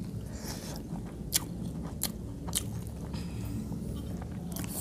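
Close-up eating sounds: chewing of rice and curry eaten by hand, with about five sharp mouth clicks and smacks, the loudest about a second and a half in.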